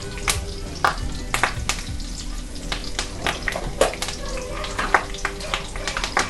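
Curry leaves, green chillies and cumin seeds sizzling in hot oil in a kadai, with many sharp, irregular crackles and pops as the leaves splutter.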